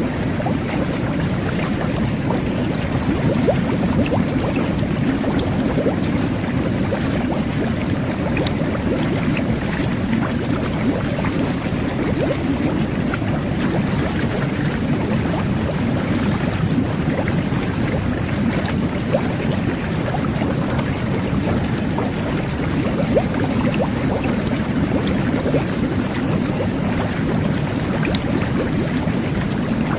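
Jet bath churning bathwater: a steady low rush of water with dense bubbling and small splashes.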